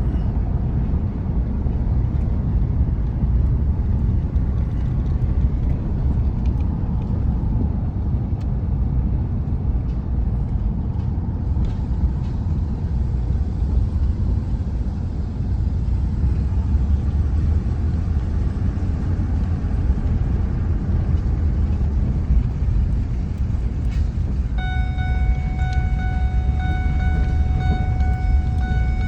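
Truck driving along: a steady low rumble of engine and road noise. A steady high tone joins about three-quarters of the way through.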